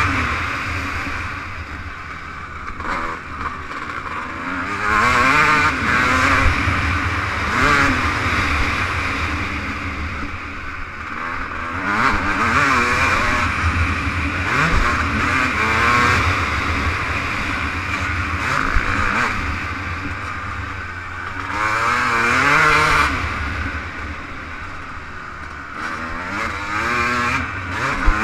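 Suzuki RM250 two-stroke motocross bike's engine, heard from a helmet camera, revving hard and climbing in pitch again and again as the rider accelerates through the gears and rolls on and off the throttle. A low rumble of wind on the microphone runs underneath.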